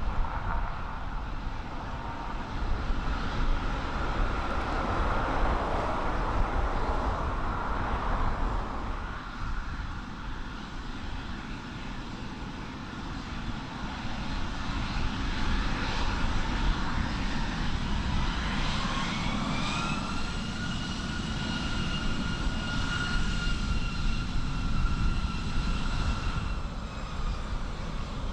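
Airliner engines running, with a rumble and wind noise on the microphone; a whine rises about two-thirds of the way through, holds steady, then eases off near the end.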